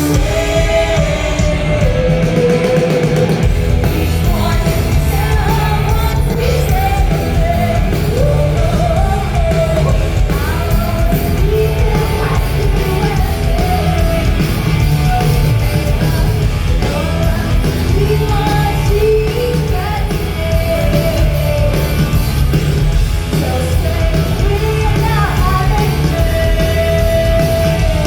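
Live rock band playing loud, with a female lead singer over heavy guitars and drums, heard from the audience in a large hall.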